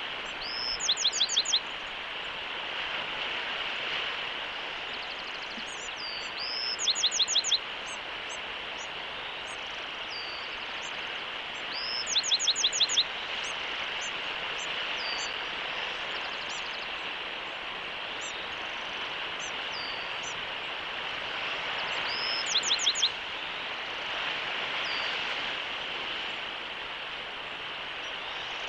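A small bird singing the same short song four times, about every five seconds. Each song ends in a fast run of about six high notes, with faint single chirps between songs over a steady background hiss.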